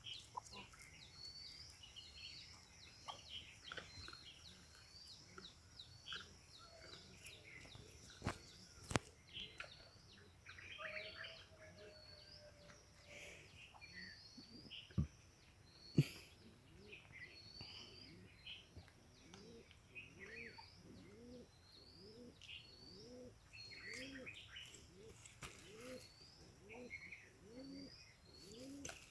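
Faint birdsong: small birds chirping over and over, joined about two-thirds of the way through by a lower, evenly repeated cooing. A few sharp clicks stand out in the middle.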